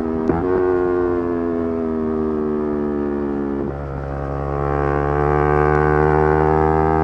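Yamaha R3's 321 cc parallel-twin engine running hard at high revs. Its pitch eases slowly, shifts abruptly about three and a half seconds in, then climbs again as the bike accelerates.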